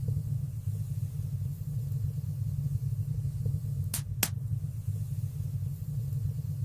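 Wood fire burning in a fireplace: a steady low rumble of flames with faint small crackles, and two sharp pops in quick succession about four seconds in.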